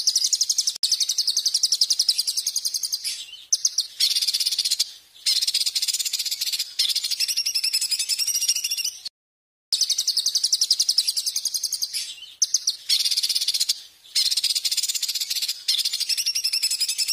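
Songbird song used as a masteran training recording: fast, high, buzzy trills in phrases of one to four seconds, separated by short breaks, with a brief full stop about nine seconds in.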